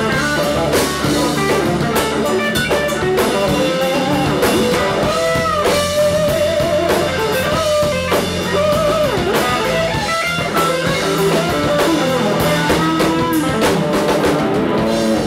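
Electric blues-rock band playing loudly: a lead electric guitar plays bending notes over a drum kit.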